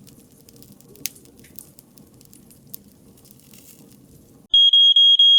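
Wood fire crackling with occasional sharp pops, cut off about four and a half seconds in by an electronic pager alarm beeping rapidly on one high tone, about five beeps a second, signalling that the countdown timer has run out.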